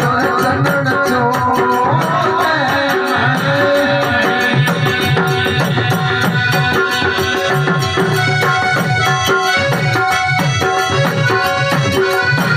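Instrumental interlude of a live folk bhajan: hand drums keep a steady, quick beat with low strokes that bend in pitch, under held melodic tones.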